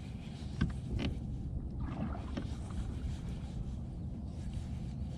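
Fishing boat on the water: a steady low noise with a few sharp knocks or clicks, about half a second and a second in and again past two seconds.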